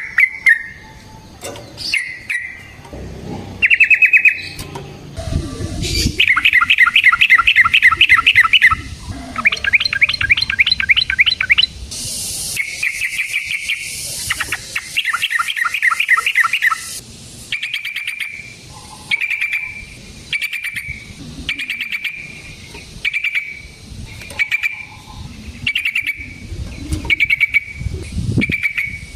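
Yellow-vented bulbul (trucukan) singing loudly: several bursts of rapid trilled notes in the first half, then a run of short, separate calls about one a second.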